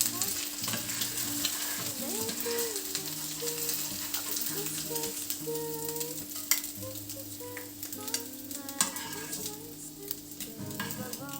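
Food frying and sizzling in a pan, with steady crackling and popping and a few louder clicks. Soft background music plays underneath.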